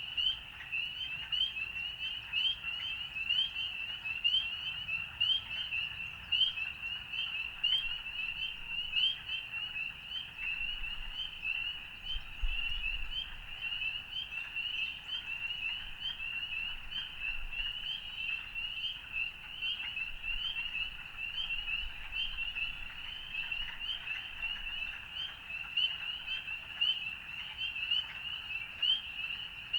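A dense chorus of frogs calling, many short rising peeps overlapping into a continuous high-pitched din.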